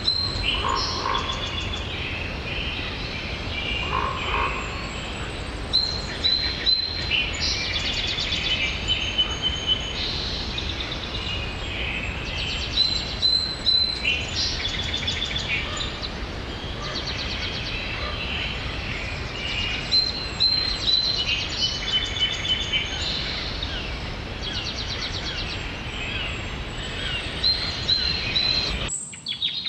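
Steady rain hiss under a chorus of animal calls: repeated chirps and fast rattling trills, high in pitch, recurring every few seconds. The rain hiss cuts out suddenly about a second before the end.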